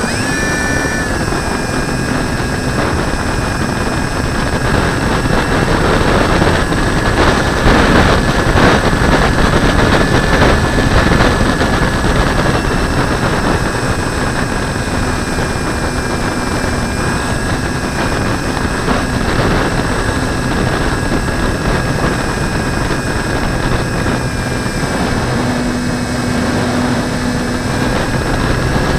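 Steady rush of airflow over a wing-mounted camera in flight, a little louder about a quarter of the way in, with faint steady high whining tones above it.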